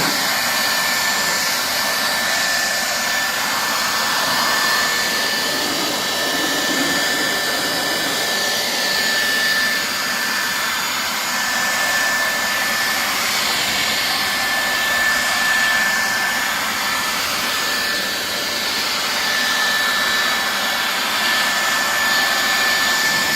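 A low-powered handheld blower running steadily, blowing beaded rainwater off a truck's painted hood: an even rush of air with a thin steady high whine.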